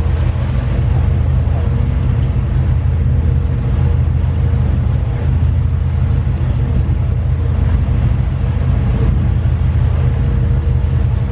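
Boat engine running steadily at trolling speed, a low drone.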